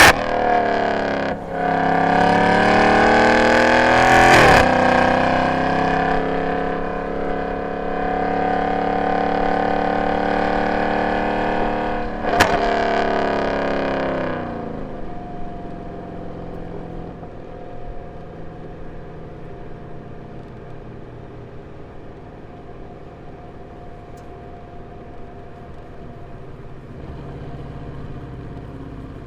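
Mercedes-Benz C63 AMG's M156 6.2-litre V8, with long-tube headers, X-pipe and no catalytic converters, revving up hard for a few seconds to a sharp crack, then holding a steady, slowly sinking pitch under load. About fifteen seconds in the revs fall away and the engine settles into a quieter, low steady run.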